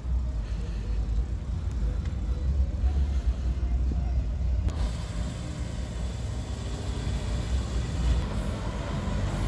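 Audi S3 engine running as the car rolls slowly in, a steady low rumble. About five seconds in, a hiss joins it.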